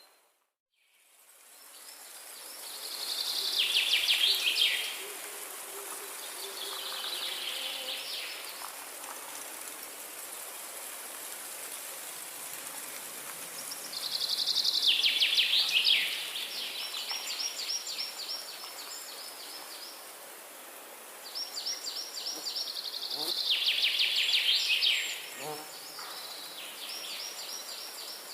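Forest ambience: a songbird sings a loud, rapid trill that drops in pitch, three times about ten seconds apart, with softer high rapid notes between the songs and a steady high hiss underneath. The sound cuts out briefly at the very start and fades back in.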